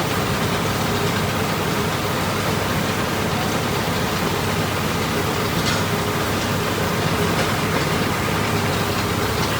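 Truck engine running steadily, with a constant low hum under even road or wind noise.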